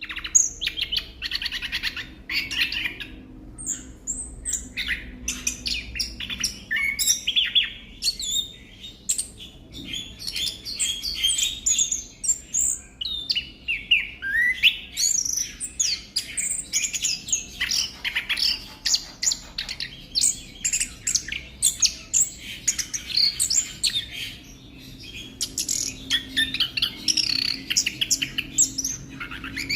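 Chestnut-capped thrush (anis kembang) singing a fast, varied stream of chirps, trills and whistles with hardly a pause.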